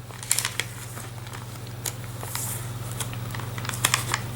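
Paper pages of a handmade junk journal being handled and turned: scattered light rustles and clicks, over a steady low hum.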